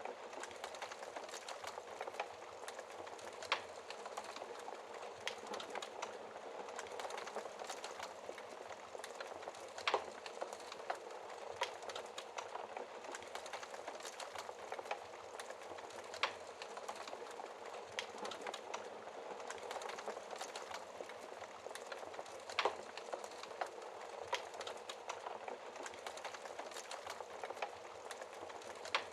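Wood fire crackling steadily with a soft hiss and irregular small snaps, and a few louder pops from the burning logs.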